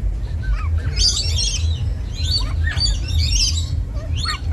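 Several birds chirping and calling in quick, overlapping bursts of high notes and short falling calls, over a steady low hum.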